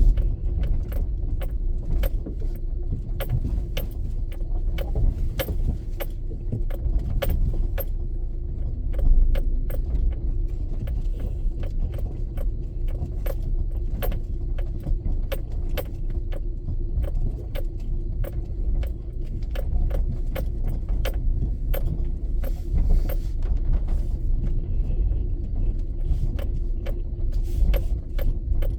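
Steady low rumble of a moving car, with many sharp, irregular ticks and rattles throughout.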